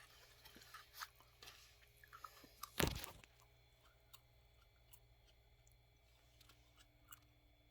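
A person chewing and crunching raw celery, with one loud crack about three seconds in, then fainter chewing.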